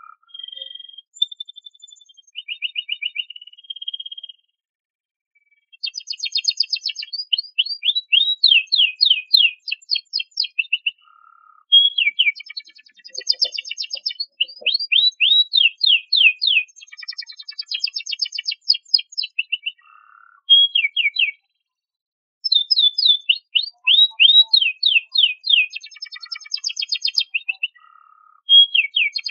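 Domestic canary singing: fast trills of quick down-sweeping notes, in phrases broken by short pauses, the longest about four seconds in.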